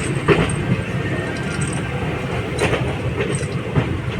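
ICF passenger coach running along the track: a steady rumble of wheels on rail, broken by a few sharp clacks as the wheels pass rail joints.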